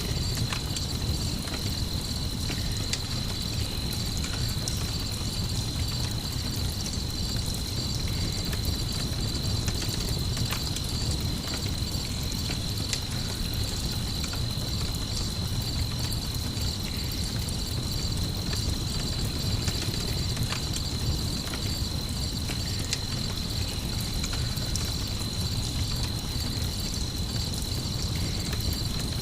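Night-ambience mix of crickets chirping in a steady, rapid pulse, over a campfire crackling with scattered sharp pops and a constant low rumble.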